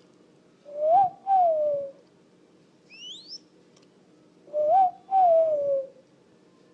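Pet bird calling twice, each call a pair of cooing notes that rise and then fall in pitch, with a brief high rising chirp between them: typical of a young bird.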